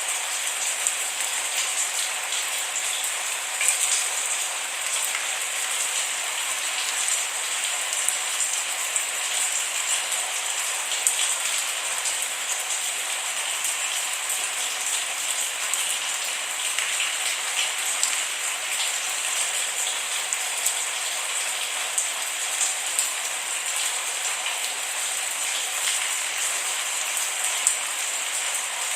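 Steady rain falling with no thunder, a constant hiss full of small, close drop ticks.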